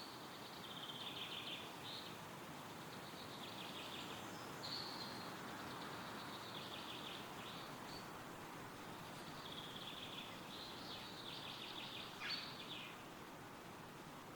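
Wind rustling steadily through woodland trees, with a small songbird singing several rapid trilled phrases over it and one sharp falling call near the end.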